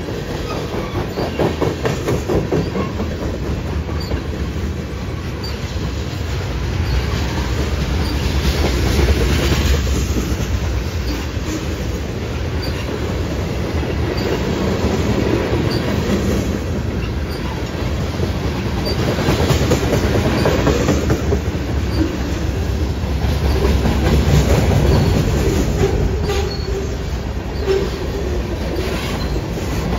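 A mixed freight train of tank cars, covered hoppers and boxcars rolling past at trackside: a steady rumble of steel wheels on the rails with a rapid clicking as the cars' wheels pass. Faint, brief high squeaks from the wheels come every few seconds.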